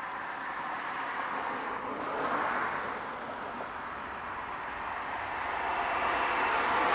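Jet noise from an ITA Airways Airbus A330 approaching, building steadily louder with a brief swell a couple of seconds in.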